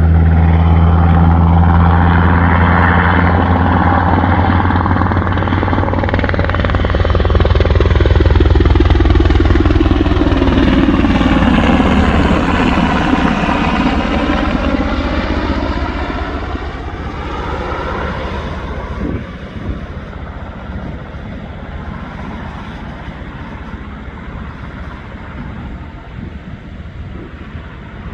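Sikorsky UH-60 Black Hawk helicopter flying low past: loud at first with a deep, steady rotor sound, loudest about ten seconds in, then fading steadily away over the last ten seconds.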